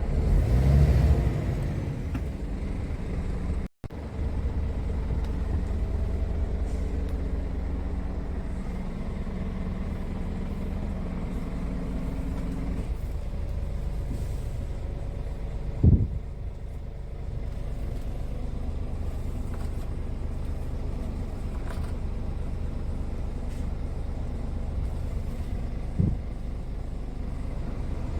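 Scania G450 truck's 13-litre inline-six diesel engine running steadily, with a sharp thump about halfway through and a smaller one near the end. The sound cuts out for an instant about four seconds in.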